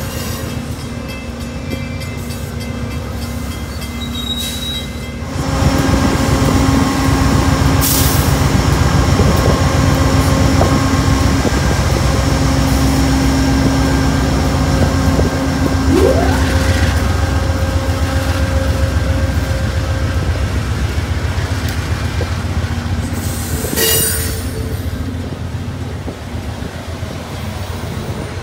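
Passenger train passing close, with a GE P40DC diesel locomotive's engine running loudly over the steady rumble of wheels on rail. The noise swells about five seconds in as the locomotive comes by. There is a short rising squeal midway and two sharp clanks, one about eight seconds in and one near the end.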